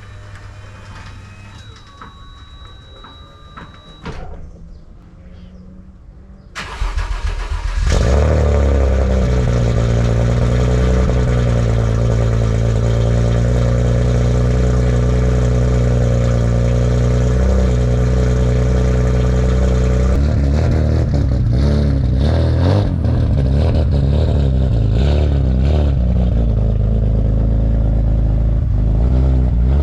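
Turbocharged BMW M50 inline-six in an E36 cranking and catching about a quarter of the way in, then settling into a loud steady idle. In the last third it is revved repeatedly, its pitch rising and falling.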